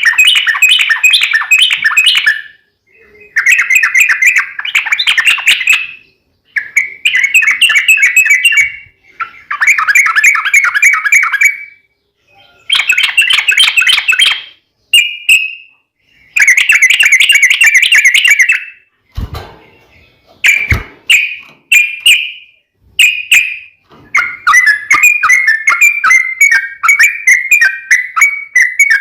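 Yellow-vented bulbul (trucukan) song: loud, bubbly chattering phrases about two seconds long, repeated with short pauses, ending in a longer run of rapid notes. Two sharp knocks come about two-thirds of the way through.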